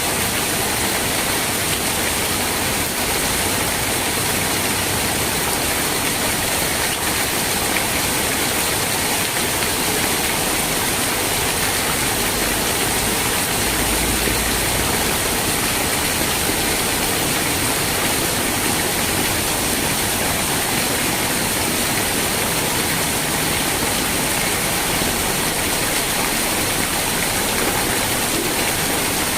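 Steady rain falling, a constant dense hiss with no distinct drops or breaks.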